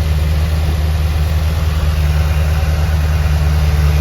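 Rebuilt Chevrolet 350 small-block V8 idling steadily through a new exhaust, a deep, even hum.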